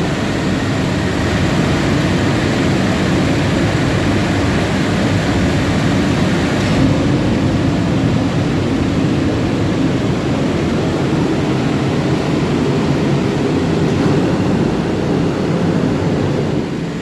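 Riello fuel-oil burner running: a steady, loud, low noise from its fan and flame, falling away near the end.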